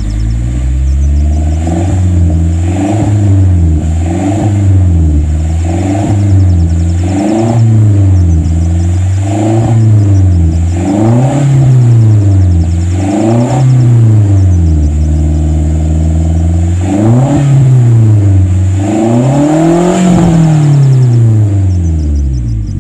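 Vehicle engine revving up and down over and over, a rise and fall about every one and a half seconds, loud throughout and fading away at the very end.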